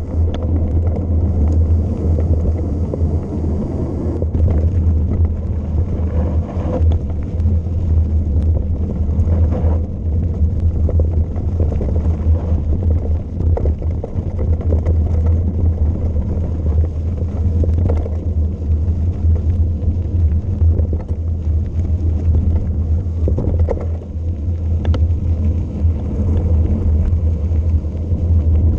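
Steady deep rumble of wind buffeting the camera's microphone as a bike descends at speed.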